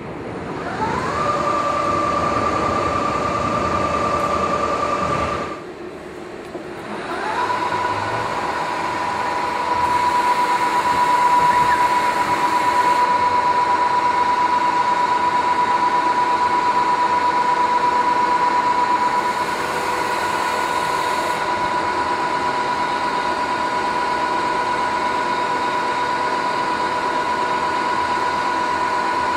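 Drive of a KNUTH BO 130 CNC horizontal boring and milling machine running up with a rising whine that settles to a steady pitch. It stops briefly around the fifth second, then winds up again and runs steady at a slightly lower pitch.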